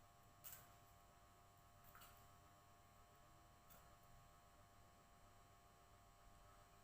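Near silence: a faint steady electrical hum, with three faint brief clicks in the first four seconds.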